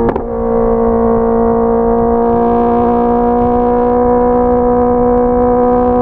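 Honda CBR650R inline-four engine running at high revs under way, its note briefly broken at the start and then held at a steady, slightly rising high pitch, with wind rumble underneath.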